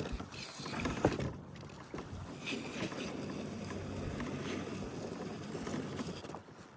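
Choppy water slapping and sloshing against a kayak hull, with two sharp knocks in the first second or so.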